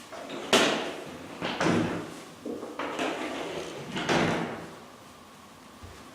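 Doors being slid and knocked open and shut, about four times in quick succession. Each starts with a bang and trails off in a short rolling slide.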